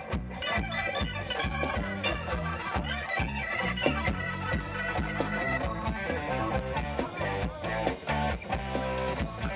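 Live rock band playing an instrumental passage: a keyboard with an organ sound over electric guitar, bass and a steady drum beat.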